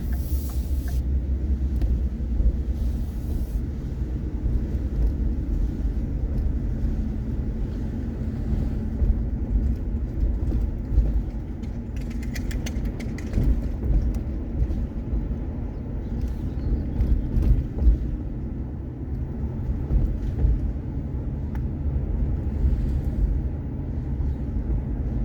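Steady low rumble of a vehicle being driven slowly, heard from inside the cab: engine and road noise. A short burst of rapid clicks sounds about halfway through.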